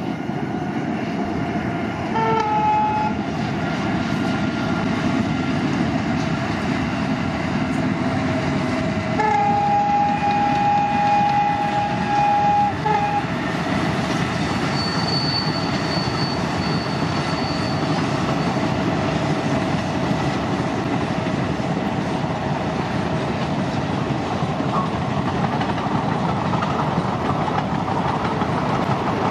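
A diesel-hauled Indian Railways train running past, its wheels rumbling steadily on the rails. The locomotive horn gives a short blast about two seconds in, then a longer one of about four seconds from around nine seconds. A thin high whine follows briefly a few seconds later.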